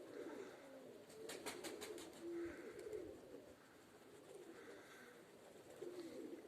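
Domestic pigeons cooing, faint and low, with a quick run of sharp clicks about a second and a half in.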